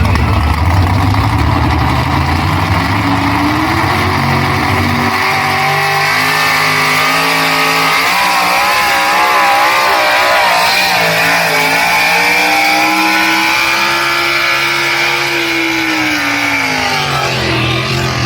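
Loud big block Chevrolet V8 of a pulling truck at full throttle: the engine note climbs in pitch, wobbles rapidly for a few seconds midway, holds high, then drops away near the end as the pull finishes.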